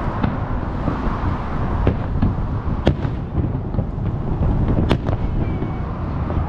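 Fireworks display: a steady low rumble of distant bursts with several sharp cracks, the two loudest about three and five seconds in.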